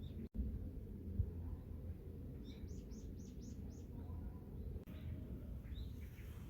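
Small songbirds chirping: a quick run of five high, falling notes about two and a half seconds in, then a few single chirps near the end, over a steady low rumble.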